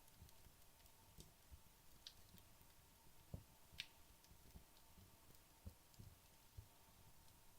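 Faint, scattered crackles and ticks from wood logs burning down in a fireplace, a few sharp snaps standing out over a faint hiss.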